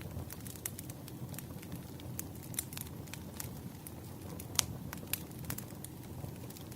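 Fireplace crackling: irregular sharp pops and snaps over a steady low rumble of flames. The loudest pop comes a little past halfway.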